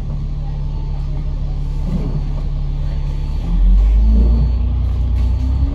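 Bus diesel engine running steadily, then revving up about three and a half seconds in as the bus accelerates, getting louder and rising in pitch.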